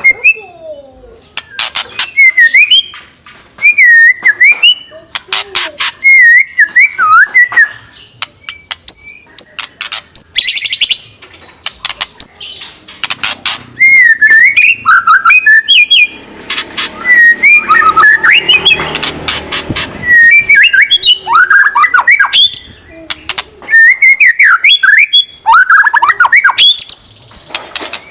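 White-rumped shama giving its harsh, crackling 'kretekan' rattle: rapid runs of clicks alternate with short whistled notes that rise and fall. This is the agitated call that riles rival shamas.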